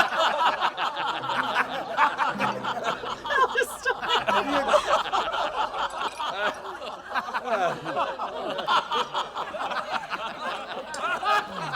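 A group of men laughing together at a banquet table, many voices overlapping in continuous, hearty laughter.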